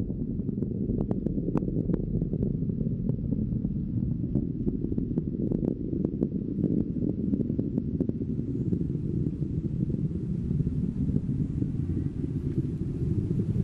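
Falcon 9 rocket engines rumbling steadily during ascent, a dense low roar with scattered crackles in the first half.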